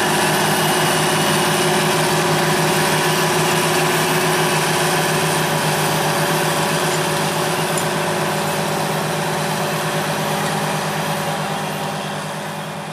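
Large farm tractor's diesel engine running steadily, fading out over the last couple of seconds.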